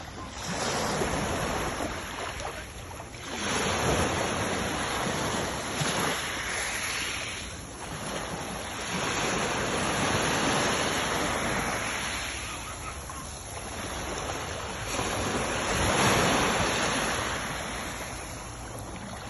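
Sea waves breaking and washing up, the rush swelling and falling back about every four seconds.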